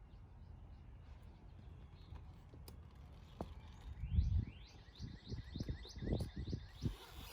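A bird calling a quick series of falling chirps, about four a second, starting a little past halfway, over a low rumble and several dull knocks.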